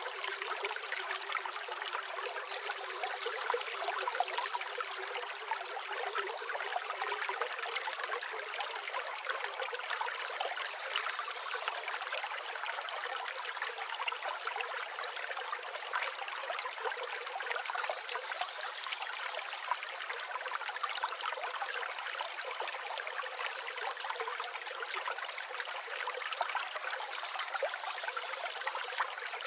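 River water flowing and babbling over stones, a steady even rush with no pauses.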